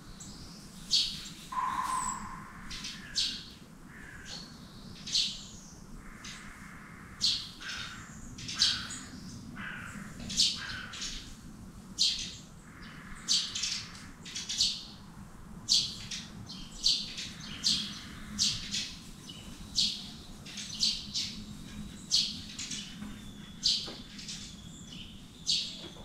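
Birds calling: a string of short, sharp high-pitched calls, roughly one every second, with a lower, longer note about two seconds in.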